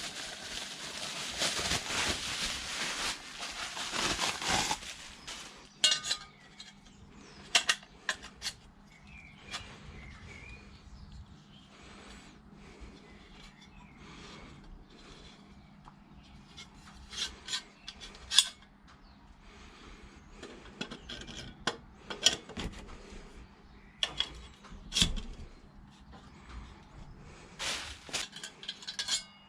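Hand work on a car exhaust: a rasping, scraping rub for the first five seconds, then scattered sharp metal clinks and knocks as parts and tools are handled.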